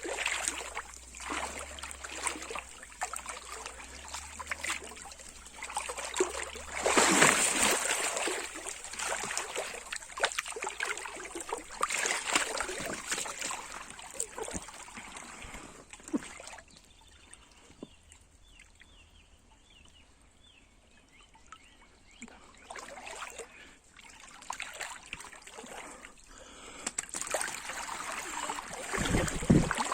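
Small river's water trickling and splashing in irregular splashes, with the loudest splash about seven seconds in and a quieter stretch in the middle.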